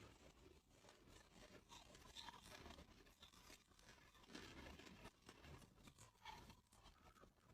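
Faint crunching of clear ice chunks being bitten and chewed: a continual run of small cracks, with a few louder crunches spread through.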